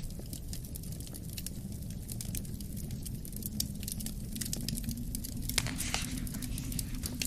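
Wood fire crackling with frequent sharp pops, a louder cluster of snaps about six seconds in, over a steady low rumble of wind.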